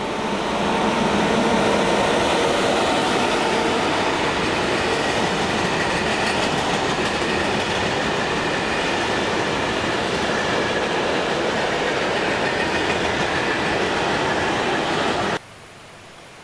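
Freight train of covered sliding-wall wagons rolling past: a loud, steady rolling noise of wheels on rails with faint high tones over it. It stops suddenly about a second before the end, leaving only a quiet hiss.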